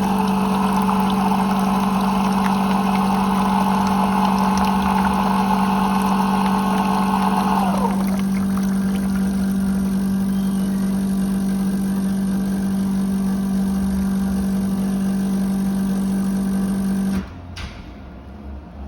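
HLF Italian Design 2700 coffee machine running: a steady, loud motor hum with a higher whine that winds down and stops about eight seconds in. The hum cuts off suddenly near the end.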